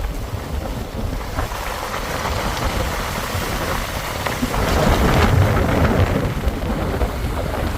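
Steady rushing noise of a vehicle driving a wet trail in the rain, rain and tyre noise over a low rumble, swelling louder for a couple of seconds past the middle.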